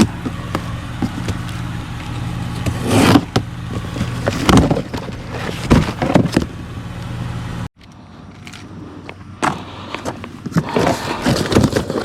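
Honda Accord V6 idling with a steady low hum, with several loud knocks over it. About two-thirds of the way through, the sound cuts off suddenly and is replaced by quieter clicks and handling noises.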